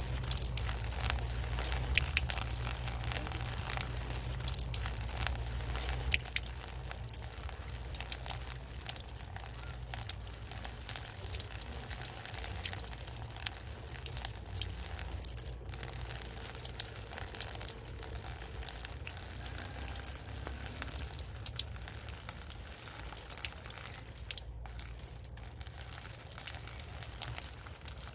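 Rain falling steadily, a dense patter of drops with a low rumble underneath that eases about six seconds in.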